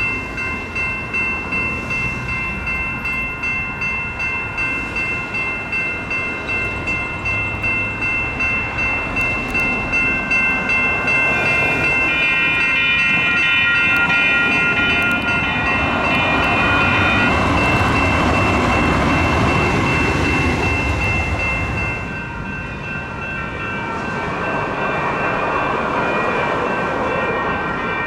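Grade-crossing warning bell dinging in a steady rhythm while a Sacramento Regional Transit light rail train passes. The train's running noise swells about halfway through, eases briefly, then rises again near the end.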